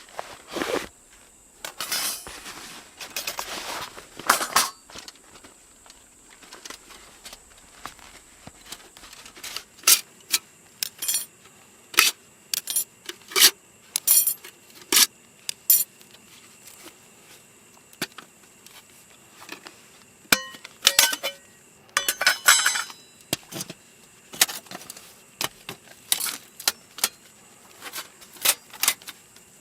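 Camp cooking gear being handled: irregular sharp clinks and knocks of metal and glass, with a few rustling bursts between them.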